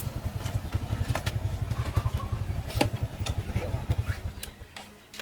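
Small engine idling with a rapid, steady low chug, then cut off about four and a half seconds in. A few light clicks sound over it.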